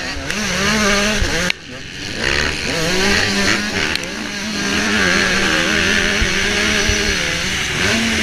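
Motocross bike engine revving and easing off repeatedly as the throttle is worked, heard from the rider's helmet camera with heavy wind rush. The engine note drops away abruptly about one and a half seconds in, then builds back up.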